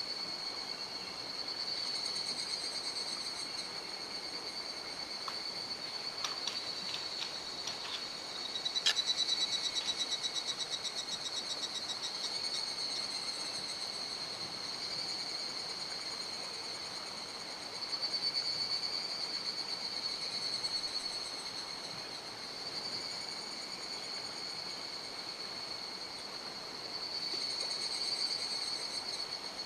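Insects singing in a steady, high-pitched chorus that swells and fades. About nine seconds in, a louder rapid pulsing call runs for a few seconds.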